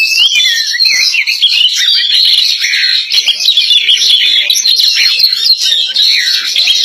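Female oriental magpie-robin singing a loud, unbroken run of quick whistled notes that slide up and down in pitch.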